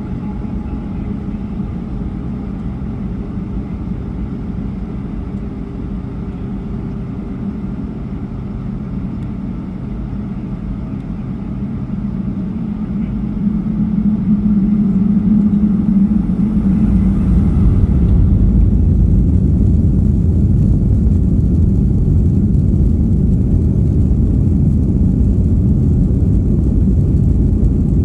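Airliner cabin noise from the engines: a steady low hum that grows louder about halfway through, then settles into a steady, heavier rumble.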